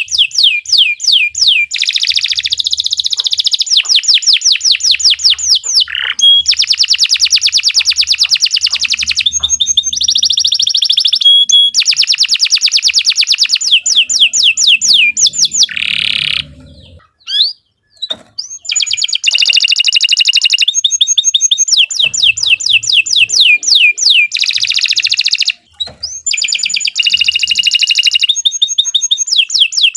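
Domestic canary singing a long, loud song of rapid repeated trills and rolls, changing from one trill to the next, with brief pauses about 17 and 25 seconds in.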